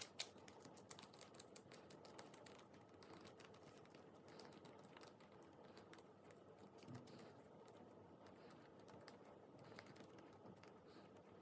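Faint, irregular small clicks and pops of slime being pressed and worked by hand.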